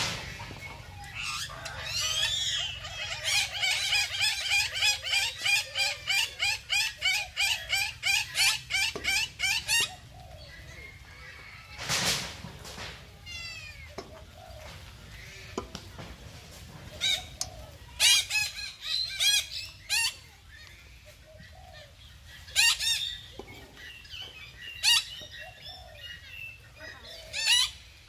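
Birds calling: a fast, even run of chirping notes, about three a second, for roughly eight seconds. After that comes one short rustling burst, then scattered short chirps and calls.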